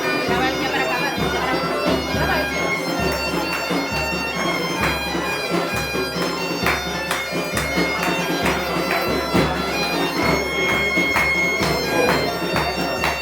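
Galician bagpipe (gaita) playing a lively tune over its steady drone, with a drum beating along.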